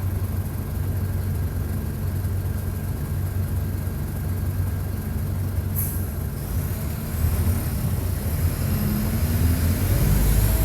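Mercedes-Benz OF-1722 bus diesel engine running under way, heard close to the engine. About six seconds in there is a short hiss of air, then the engine revs up, rising in pitch and growing louder toward the end.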